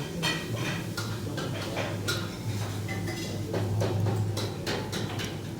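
Eating utensils clicking and clinking against a bowl and plate in a series of short taps, over a steady low hum.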